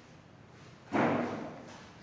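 A single sudden thump about a second in, fading out over about half a second.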